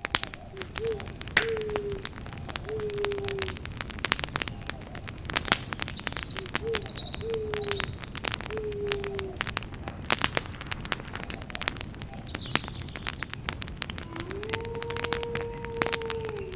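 Campfire crackling with dense sharp pops and snaps. Over it a bird calls twice, each call a phrase of four or five low, slightly falling notes, and a long steady tone sounds near the end.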